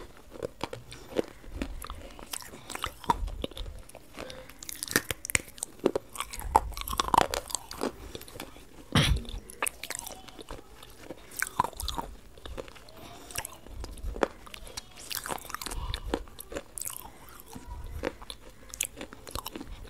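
A person chewing and biting crunchy food close to a microphone: irregular crunches and crackles, with soft low thumps scattered throughout.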